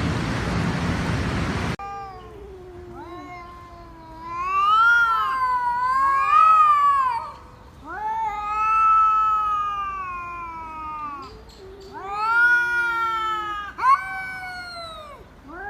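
A domestic cat yowling in about four long, drawn-out, wavering calls that rise and fall in pitch. They follow a steady hiss of noise that cuts off about two seconds in.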